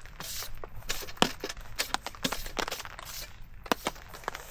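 Irregular clicks and knocks of a folding camp table's parts being handled and fitted together.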